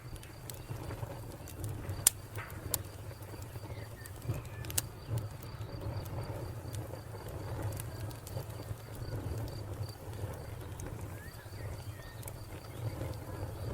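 Wood fire crackling, with sharp scattered pops (the loudest about two seconds in) over a low steady rumble of flames. A cricket chirps in an even pulsing rhythm behind it.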